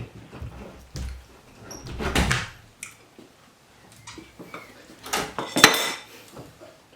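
Handling noises at a table: rustling and clatter of food and dishes, with a sharp knock a little before the end.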